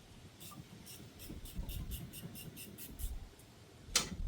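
Hand tool working a stuck bolt thread: a run of light, even ticks about five or six a second, then one sharp metallic click near the end.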